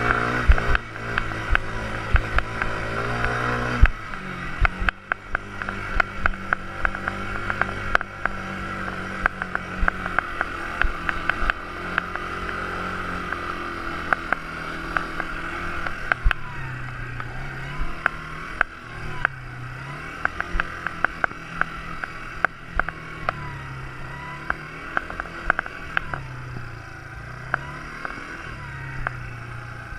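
Quad bike engine running, its pitch shifting with the throttle, with many sharp knocks and rattles throughout. In the second half the engine note dips and rises again every couple of seconds.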